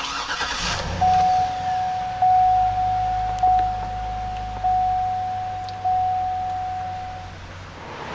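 Dashboard warning chime of a 2008 Hummer H2 with the ignition switched on, ringing one steady tone five times about a second and a quarter apart, over a low hum, just before the engine is cranked.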